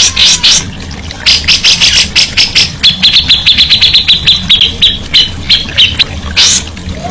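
Cucak jenggot bulbul singing a busy, loud song of sharp high notes: harsh rasping strokes at first, then a fast run of short repeated notes, about eight a second, from about three to six seconds in, and more rasping notes near the end.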